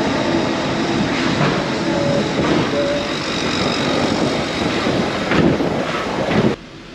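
Loud, steady travel noise of a vehicle in motion, with several sharp knocks and clatters, cutting off abruptly near the end.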